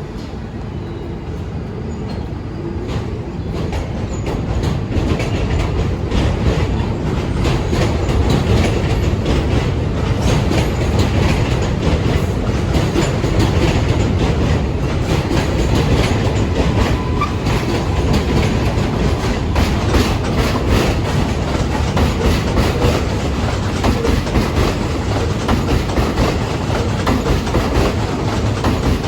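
New York City subway train running on elevated track, its wheels clattering over the rail joints. It grows louder over the first few seconds, then holds steady and loud.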